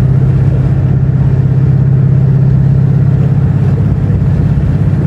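Dodge Charger's 5.7-litre Hemi V8 cruising at steady speed: a steady, low exhaust drone over road noise.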